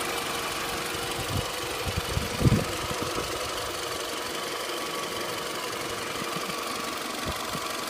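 Toyota Camry 40's 2AZ-FE 2.4-litre four-cylinder engine idling steadily with extraneous noises whose origin the owner cannot place. A few short low thumps come about a second and a half to two and a half seconds in, the loudest near two and a half seconds, and one more near the end.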